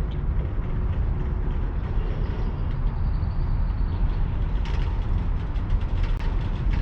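Bicycle riding over city streets, picked up by an action camera's mic: a steady low rumble of wind and road with rattling clicks, which thicken about four and a half seconds in.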